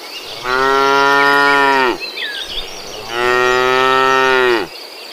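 Cows mooing: two long moos of about a second and a half each, the second starting about three seconds in, each dropping in pitch as it ends. Faint bird chirps sound between them.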